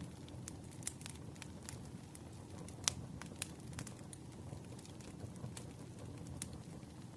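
Firewood burning with a steady low rumble and frequent sharp crackles and pops, one louder pop about three seconds in.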